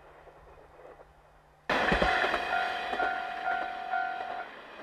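Diesel railcar passing close through snow, its running noise starting abruptly loud about two seconds in, with the horn sounding in several short blasts before the noise fades.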